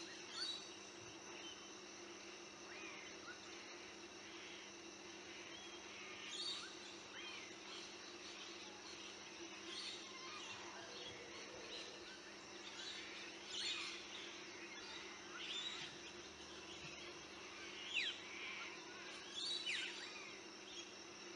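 Birds chirping and calling now and then, short sweeping calls that come more often in the second half, over a steady outdoor hum.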